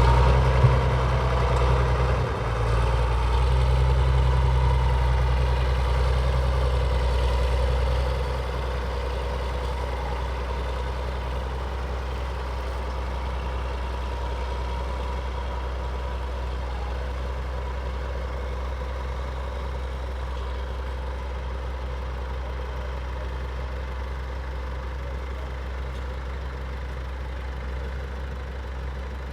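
Tractor engine working steadily as it pulls a plough away across the field, loud for the first eight seconds or so, then dropping and fading slowly as it moves off.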